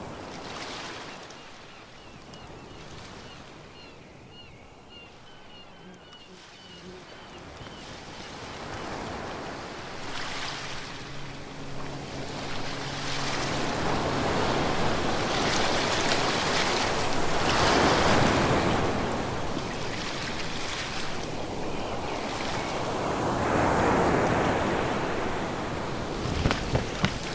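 Ocean surf washing in and breaking in slow surges. It starts soft and grows louder from about a third of the way in, with the biggest swells near the middle and again near the end.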